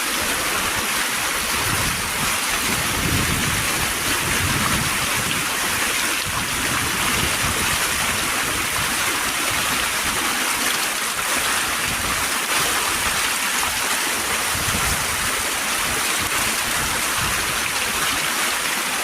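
Water pouring over a waterfall: a steady, even rush of falling water.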